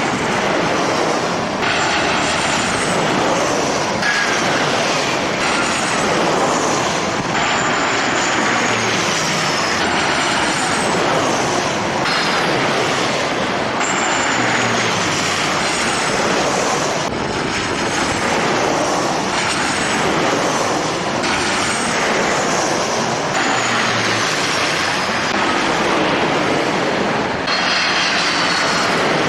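Jet airliner engines making a loud, steady rush. High whines fall in pitch again and again, and the sound shifts abruptly every few seconds.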